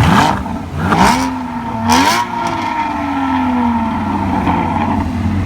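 Sports car engine revved in three quick blips about a second apart, each rising sharply in pitch, then its note falls slowly over the next couple of seconds.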